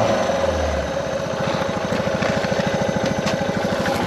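Suzuki DR650's single-cylinder four-stroke engine running with a steady, even beat.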